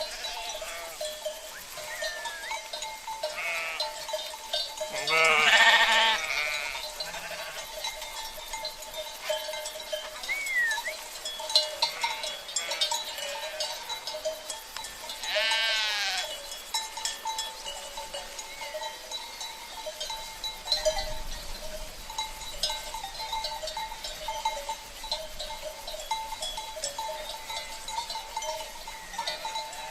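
Sheep bleating, loudest about five seconds in and again about fifteen seconds in. Bells on the flock clink and ring steadily throughout.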